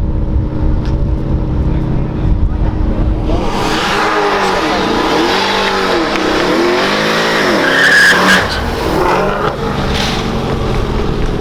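A sports car engine, low and steady at first, then about three and a half seconds in it revs hard several times, pitch rising and falling, with a brief high squeal near the loudest point.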